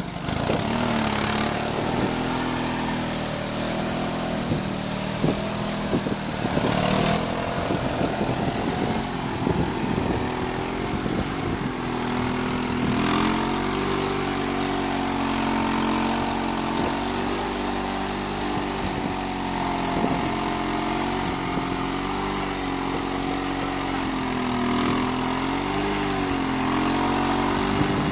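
UD-25G single-cylinder engine of a homemade mini tractor running steadily. Its pitch rises about halfway through and wavers near the end as engine speed changes.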